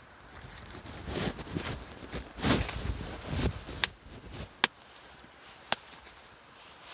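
Irregular rustling and crunching movement sounds for a few seconds, then three sharp clicks about a second apart.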